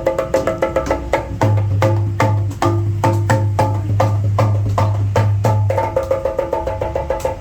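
Sundanese jaipong kendang drums of jackfruit wood played by hand in a fast, dense rhythm, with sharp ringing high strokes over a deep, sustained bass drum tone.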